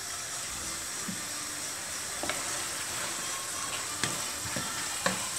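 Orecchiette and turnip greens sizzling steadily in oil in a frying pan, stirred with a wooden spoon that knocks against the pan a few times.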